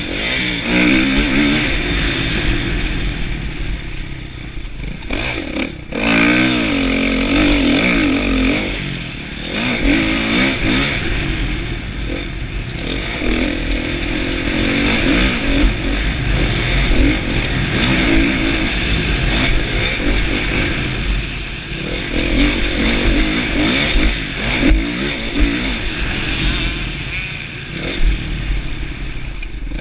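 Kawasaki KX450F four-stroke single-cylinder motocross engine being ridden hard, revving up and down as the throttle opens and closes and the gears change. The throttle is shut off briefly about six seconds in before the engine picks up again.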